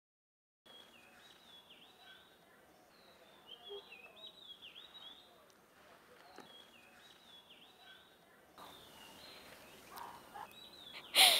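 Faint birds chirping over quiet outdoor background noise, in repeated short high chirps that sweep downward. Near the end there is a single short, louder burst of sound.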